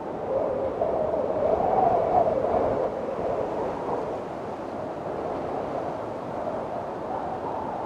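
Windstorm: strong wind howling and gusting, its whistling pitch wavering up and down. A gust swells from about half a second in to about three seconds, then eases.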